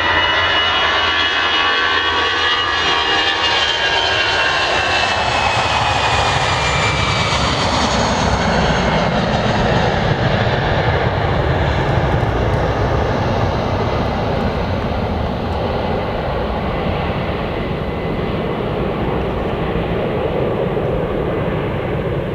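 Finnair Airbus A319 jet engines at full takeoff thrust. A high whine glides down in pitch over the first several seconds as the airliner goes past, over a broad, loud rumble. The high end then fades as the plane climbs away.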